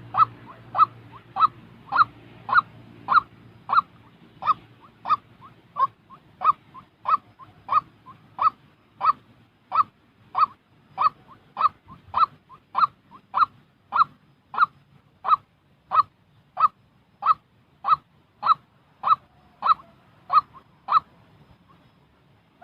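White-breasted waterhen calling a monotonous series of short, identical "kwok" notes, about two a second. The notes stop shortly before the end.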